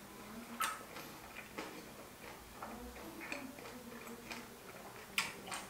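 Mouth chewing food with the lips closed: scattered soft wet clicks and smacks, a few a second apart.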